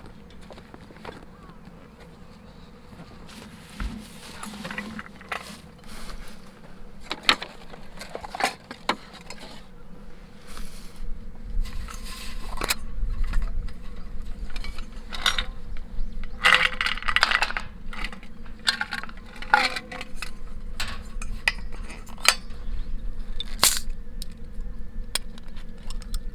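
Scattered clicks, clinks and rustles of camp gear being handled, over a faint steady hum.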